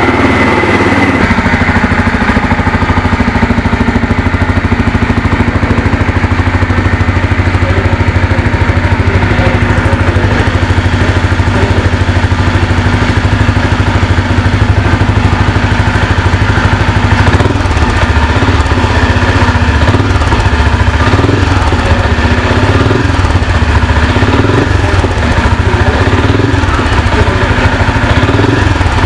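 Benelli Imperiale 400's single-cylinder engine idling steadily through its exhaust.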